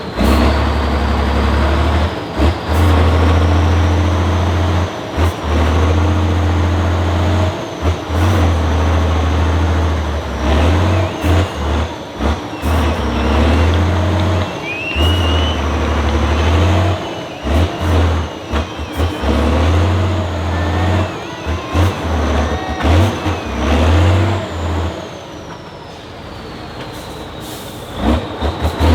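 Off-road trial truck's diesel engine revving up and down repeatedly under load, with a heavy low rumble that cuts in and out and a high whine rising and falling with the revs.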